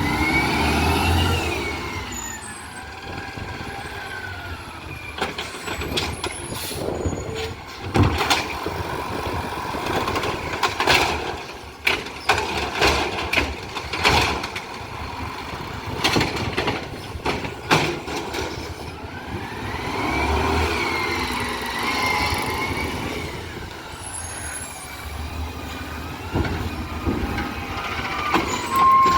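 Garbage truck working a pickup: its engine speeds up and settles back twice, and in between comes a long run of sharp knocks and bangs.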